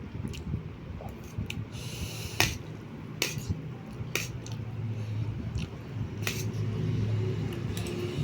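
Eating sounds: scattered sharp clicks of cutlery against a plate, about eight in all, with wet chewing of instant noodles and rice.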